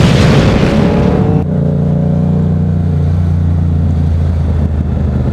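Motorcycle engine running at a steady speed while riding. A loud rushing noise cuts off about a second and a half in, leaving the engine's even drone.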